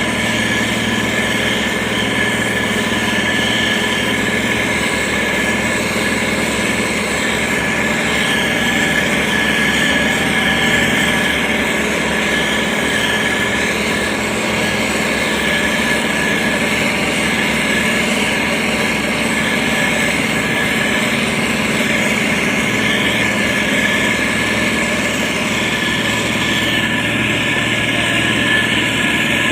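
Motor grader's diesel engine running steadily.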